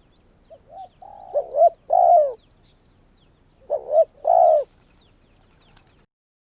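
Spotted dove cooing: two phrases of its multi-note coo, one starting about half a second in and another near four seconds. The sound cuts off about six seconds in.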